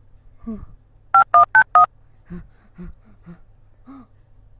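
Telephone keypad dialing tones: four quick two-tone beeps in a row, about a second in.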